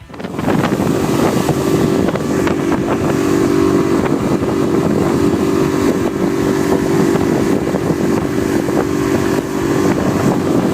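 A 20-horsepower four-stroke outboard motor running steadily with the boat underway, with wind on the microphone.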